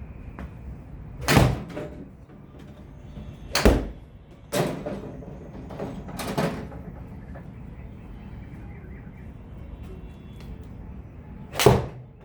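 Golf clubs striking balls: five sharp cracks at irregular intervals, the last near the end, over a steady low background hum.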